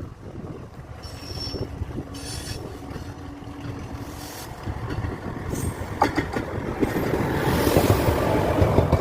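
A train running on the tracks, a low rumble with a few sharp metallic clicks about six seconds in. The noise swells into a loud rush near the end as it draws closer.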